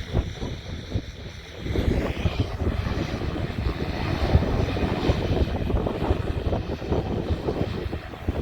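Propeller airplane engine running, growing louder from about two seconds in, over an uneven low rumble.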